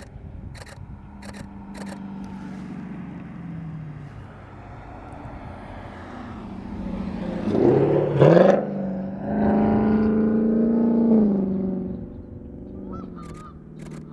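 A car driving past, its engine note rising and getting louder about eight seconds in, then fading away after about eleven seconds. Three sharp clicks come in the first two seconds, and geese start honking near the end.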